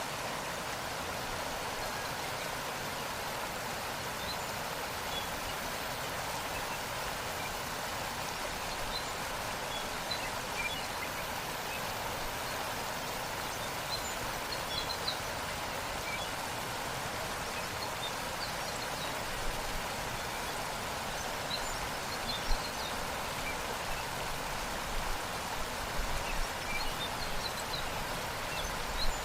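Steady rushing of a waterfall, with scattered brief high-pitched blips and an occasional louder splash over it.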